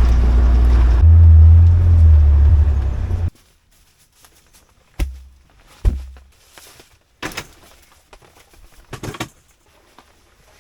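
A vehicle engine running steadily, rising a little about a second in, then switched off abruptly just after three seconds in. Several separate knocks and thumps follow.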